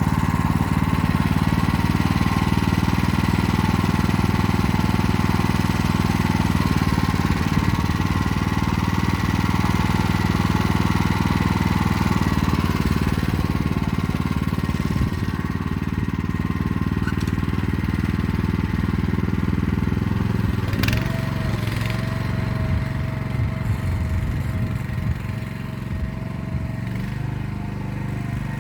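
Motor Sich walk-behind tractor's engine running steadily, easing to a lower, quieter note partway through; a single sharp click comes near the end.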